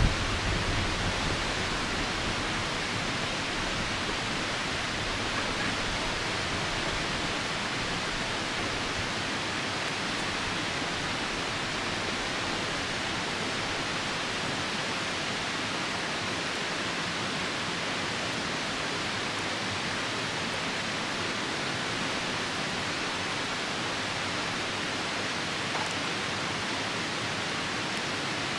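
Steady rushing of a nearby river mixed with falling rain, an even, unbroken wash of noise. A low rumble fades out about a second in.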